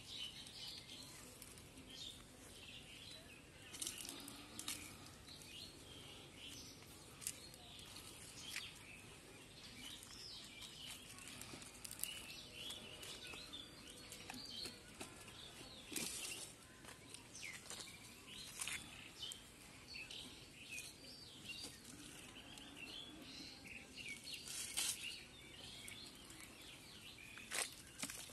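Small birds chirping and twittering in a quiet rural background, with a few scattered sharp clicks.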